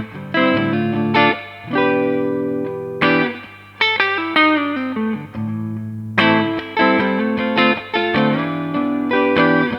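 Electric guitar, a Gibson Les Paul Studio, played through a Marshall JTM60 valve amplifier. Chords and notes are struck every second or so and left to ring out.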